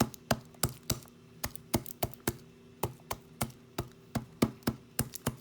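Knife chopping garlic on a cutting board: quick, even taps, about four a second.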